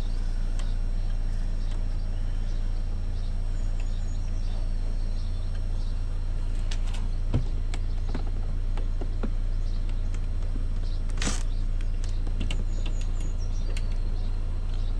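Saab 9-5 door trim being prised up along the weather stripping: scattered clicks and creaks as it is worked loose, with one louder click about eleven seconds in, over a steady low rumble.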